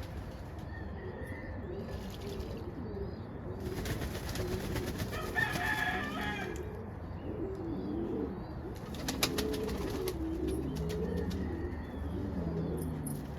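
Several pigeons cooing at once in their pen, low rolling coos that overlap throughout, with a few brief rustles partway through.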